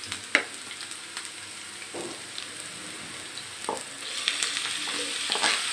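Onions and cumin frying in hot oil in a pan, sizzling quietly, with a few light knocks. About four seconds in, the sizzle grows louder as grated bottle gourd (lauki) is tipped into the hot oil.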